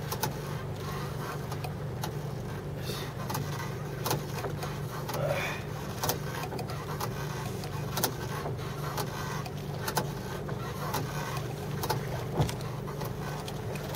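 Steady low drone of a small fishing boat's engine running, with scattered sharp clicks and knocks over it.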